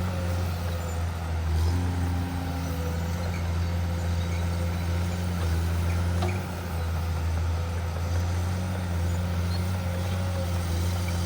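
Hydraulic excavator's diesel engine running steadily at an even pitch.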